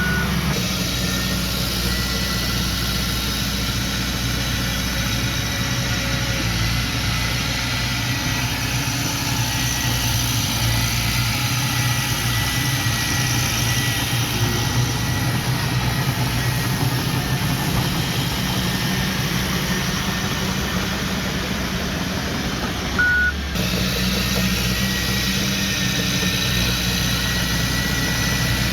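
Heavy diesel engine of earthmoving equipment running steadily, with a thin high whine over it. A single short reverse-alarm beep sounds near the end.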